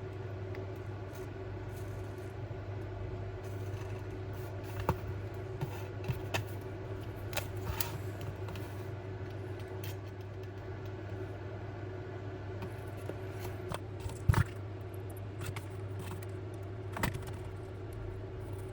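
Scattered small clicks and taps of a model locomotive's parts and small tools being handled on a workbench, the loudest a sharp double click about fourteen seconds in, over a steady low background hum.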